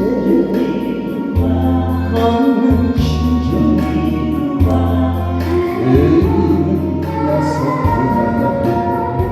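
A song with a singing voice over instrumental backing, with held bass notes and a steady beat.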